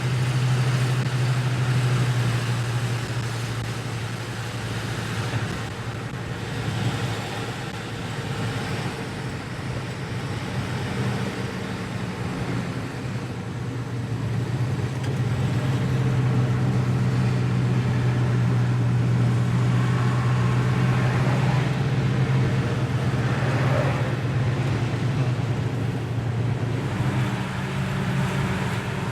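A 1968 Rover P5b's 3.5-litre V8 and its tyres on the road while the car is driven: a steady low engine drone over road noise. The drone eases off for a few seconds early on and is stronger and steadier from about halfway through.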